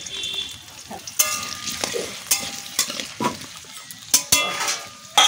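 Potato chunks sizzling in hot oil in a metal karahi while a metal spatula stirs and scrapes them, with several sharp clanks of the spatula ringing off the pan.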